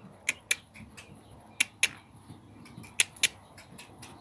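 A rider clicking her tongue in quick doubles, three pairs of sharp clicks spaced evenly, the voice cue urging a pony to walk on.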